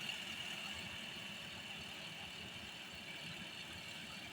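Rice combine harvester running steadily: a low engine rumble with a steady high hum from its machinery.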